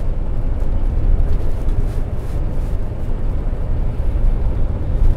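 Steady low rumble of a day-cab semi truck, heard from inside the cab.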